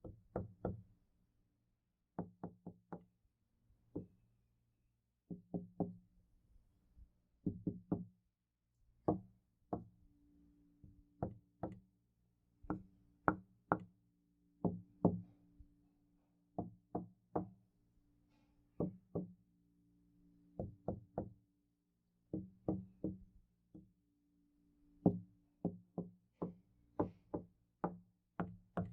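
Knocking on a door, in quick groups of two to four knocks with short pauses between groups. Many knocks leave a short low ring.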